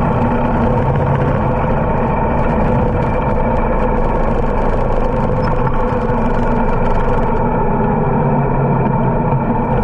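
Harley-Davidson motorcycle's V-twin engine running steadily while riding, its exhaust note constant.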